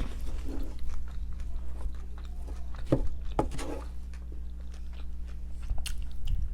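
Close-miked chewing and biting of food, with irregular wet mouth clicks and crunches, mukbang style.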